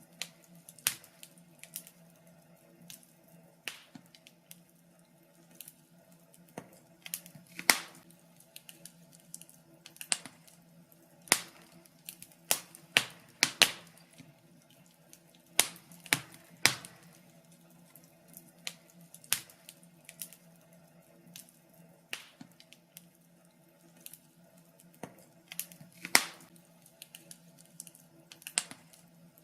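Fireplace fire crackling, with irregular sharp pops and snaps over a faint steady low hum.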